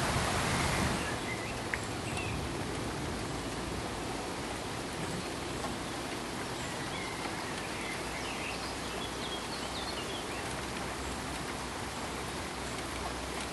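Steady pink noise, an even hiss spread across all pitches, which drops slightly in level about a second in and then holds steady.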